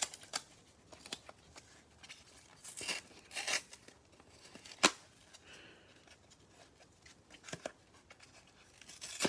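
Cardboard trading-card hanger boxes being ripped open by hand: short tearing rips and crinkles, with a few sharp snaps, the loudest about five seconds in.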